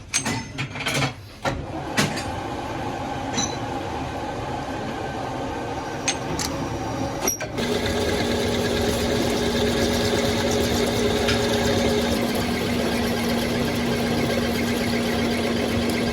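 Metalworking machine running in a workshop: a few sharp knocks in the first two seconds, then a steady mechanical hum that grows louder, with a steady low tone coming in about halfway through.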